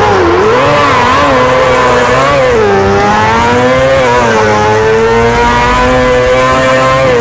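Motorcycle engine running hard at high revs, its pitch dipping and rising as the throttle is worked, then holding fairly steady from about halfway through.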